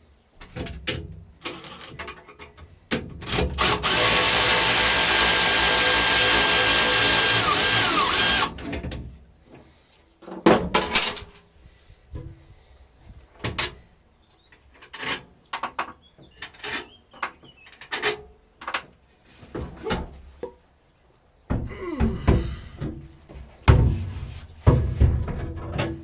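A power tool runs steadily for about five seconds, then stops. Scattered clicks, clanks and knocks of hand work on metal parts follow.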